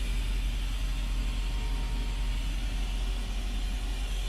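Steady machine hum with a strong low drone and a faint even hiss, from the CNC mill and shop machinery running at rest; no cutting or strikes.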